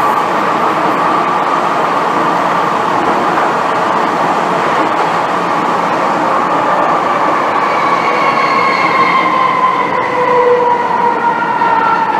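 MTR M-Train subway car running, heard from inside the car. Under the steady rumble of the running train, a whine falls slowly in pitch as the train slows, with higher overtones joining it in the last few seconds.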